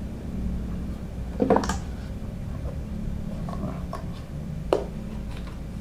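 Hard parts of an air pump and its pipe fittings being handled: a short clattering rustle about a second and a half in, a few small clicks, then one sharp click near the end, over a steady low hum.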